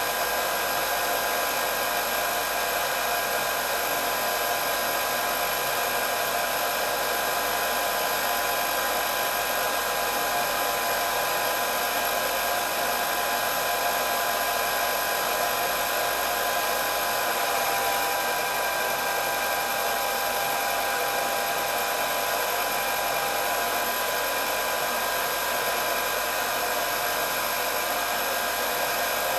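Hair dryer running continuously, a steady whir of motor and blowing air with a constant high whine.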